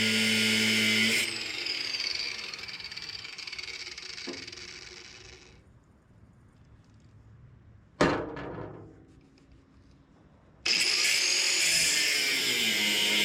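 Angle grinder with a cut-off wheel cutting through a seized shock absorber mount, then let go and spinning down over a few seconds. About eight seconds in there is a single sharp clank that rings briefly, and near eleven seconds the grinder starts again at full speed, cutting.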